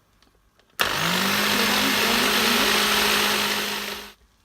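Electric mixer grinder switched on about a second in: its motor hum rises in pitch as it spins up, then runs steadily with a loud rushing whir for about three seconds before switching off and dying away, blending the biscuit cake batter.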